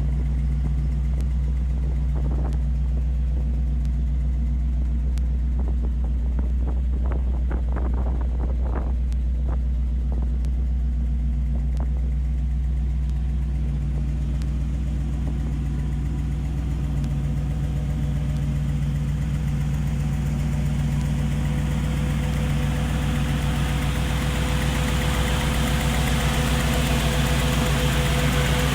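Chevrolet Impala SS's 327 cubic-inch V8 running steadily, with a short run of clicks about a quarter of the way in and a hiss that builds over the last several seconds.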